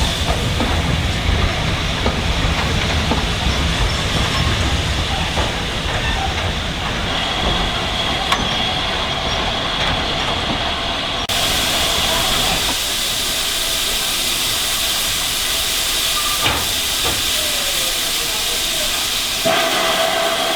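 GWR 2-8-0 steam locomotive 2857 and her train, with a steady hiss of steam over running noise. The sound changes abruptly about eleven seconds in and again near the end.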